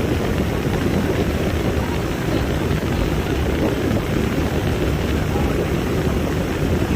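Steady rumble of a tour boat under way on a lake: the boat's motor running, with wind buffeting the microphone.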